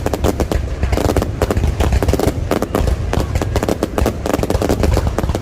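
Fireworks display: rapid, overlapping bangs and crackles over a continuous low rumble.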